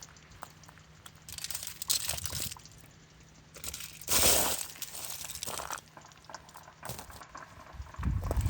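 Ice crunching and crackling in uneven bursts, like steps on ice-glazed grass, with one louder crunch about four seconds in.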